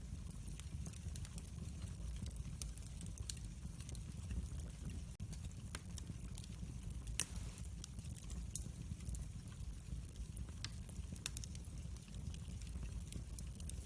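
Wood fire crackling: scattered sharp pops and snaps over a low steady rumble, with one louder crack about seven seconds in.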